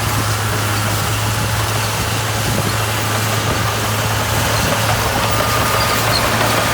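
Diesel engine of a heavy construction machine running steadily, with a constant low hum.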